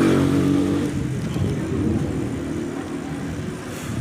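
A passing motor vehicle's engine, loudest at the start and fading away over the first couple of seconds, then road and wind noise.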